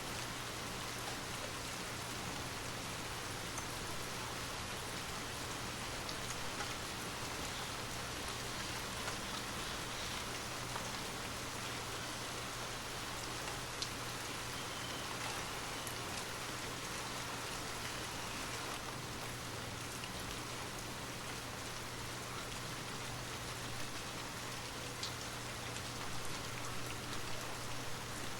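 Steady rain falling, with scattered individual drop ticks, over a steady low hum.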